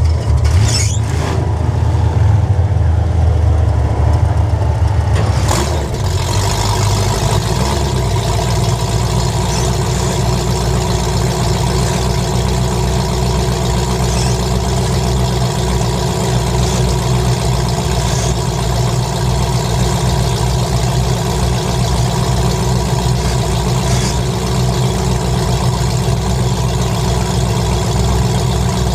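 Demolition derby car engine running steadily at a fast idle, with a heavier low rumble for the first five seconds or so that then settles to a steady, even sound.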